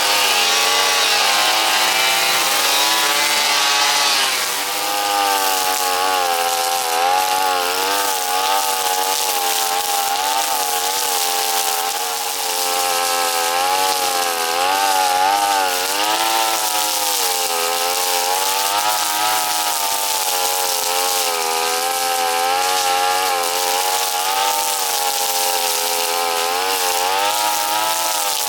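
Brush cutter engine running at high speed, its pitch rising and falling again and again as it works through grass. A harsher hiss rides on top for about the first four seconds.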